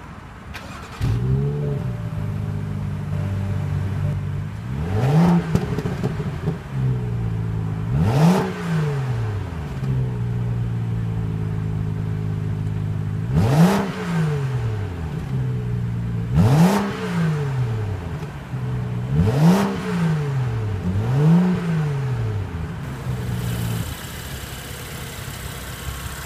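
BMW 435i's turbocharged 3-liter inline-six starting with a brief flare about a second in, then idling. It is revved six times, each blip rising and falling back to idle, before settling to a quieter idle near the end.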